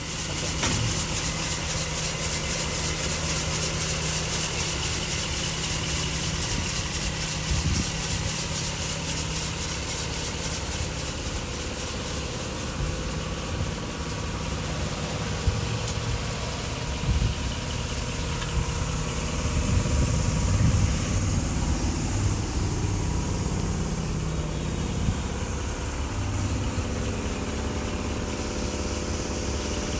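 1986 Mercedes-Benz 560 SL's V8 engine running at a steady speed, with uneven low rumbles in the second half.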